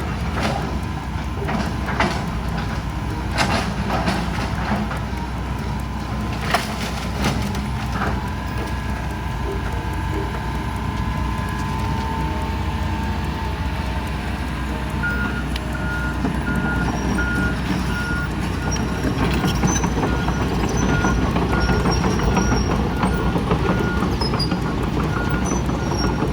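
Excavator and skid steer diesel engines running steadily, with several knocks and clanks of debris being moved in the first eight seconds. About halfway through, a reversing alarm starts beeping about once a second.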